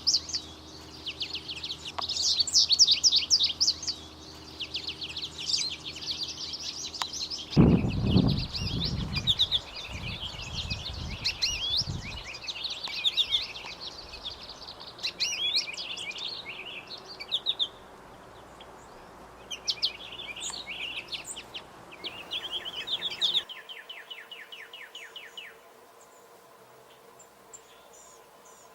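Songbirds singing in fast, high twittering trills and chirps, with a low rumble between about 8 and 12 seconds in.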